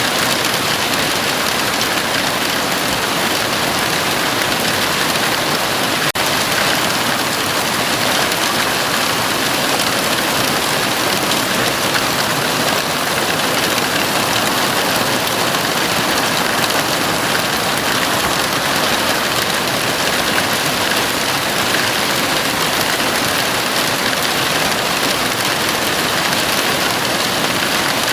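Heavy rain drumming steadily on a house roof, a dense even hiss with no thunder. There is a brief dropout about six seconds in.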